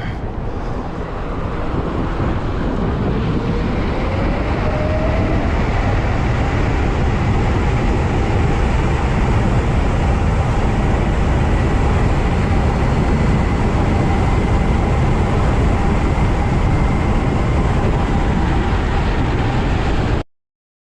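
Electric bike ridden at speed: heavy wind rush on the microphone, with a motor whine that climbs in pitch over a couple of seconds a few seconds in and then holds steady. The sound cuts off suddenly near the end.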